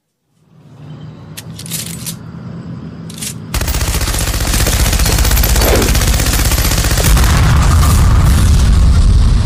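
Rumble of a stampeding herd as a sound effect. It starts faint with a few short sharp crackles, then becomes much louder and denser about three and a half seconds in.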